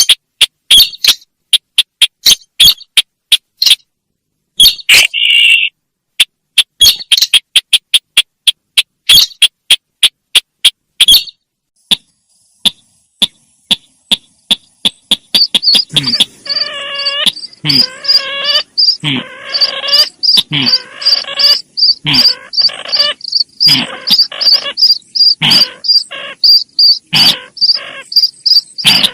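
Recorded sintar bird lure calls. A rapid series of sharp chips comes first. About halfway through, a fast, high, steady pulsing trill starts, and harsh, buzzy calls join it, repeating roughly once a second.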